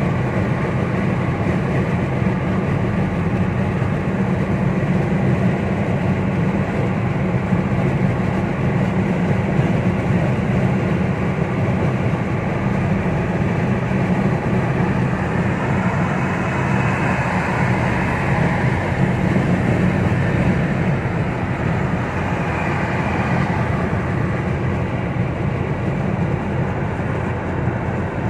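Steady road and engine drone heard from inside a car cruising on a motorway: a low hum with tyre hiss, the hiss swelling a little about midway.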